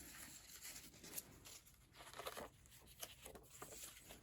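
Faint rustling of paper pages being turned in a handmade junk journal, with a few soft flicks of paper.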